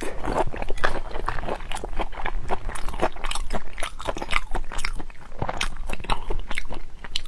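Close-miked biting and chewing of raw marinated black tiger prawns: a dense run of short, sharp mouth sounds, several a second.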